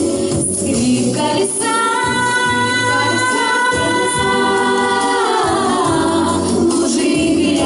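A song sung to instrumental backing: a voice holds one long note from about two seconds in, then slides down about five seconds in.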